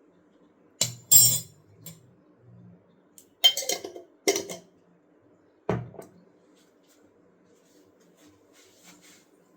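Kitchen utensils and dishes clinking and clattering: a handful of short, sharp clatters in the first six seconds, the loudest about one and three and a half seconds in, then only faint background.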